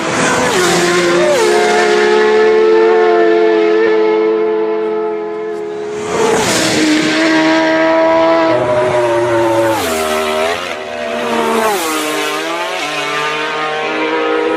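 Racing superbike engine running at high revs with a steady, high note and rushes of wind noise. The note drops and climbs back twice in the last few seconds.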